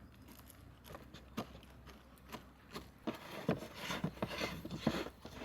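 Handling sounds of food preparation: scattered light taps, clicks and rustles that come thicker and louder over the second half.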